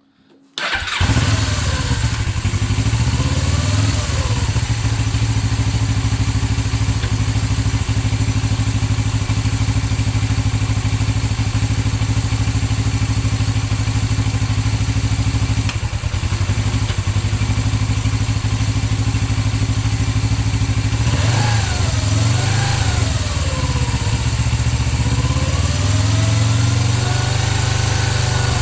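Suzuki GS500E parallel-twin motorcycle engine running cold on freshly rebuilt carburettors, coming in suddenly about half a second in and holding a steady idle. Twice near the end the revs rise and fall with blips of the throttle.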